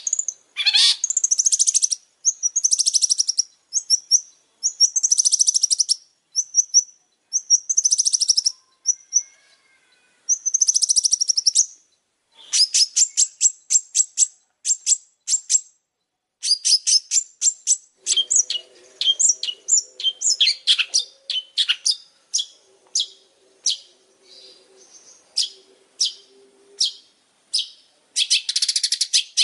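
Long-tailed shrike singing continuously. It gives fast, high chattering phrases of about a second each with short pauses, then from about halfway a long run of sharp, separate notes, several a second.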